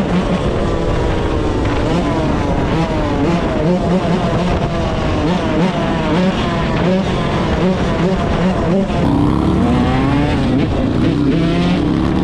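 Several dirt bike engines running and revving together, their pitches rising and falling over one another.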